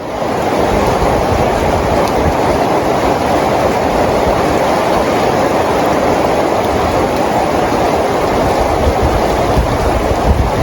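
Steady rain falling, fading in at the start and then holding at an even level, with a low rumble beneath.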